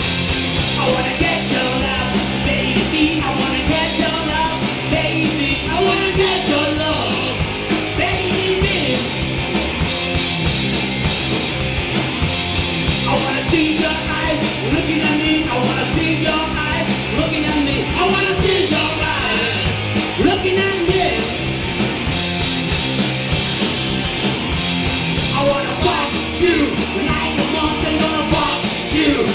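Live punk rock band playing a song, with distorted guitars, bass, drum kit and shouted vocals.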